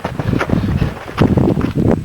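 Footsteps crunching through snow, several a second, with wind buffeting the microphone.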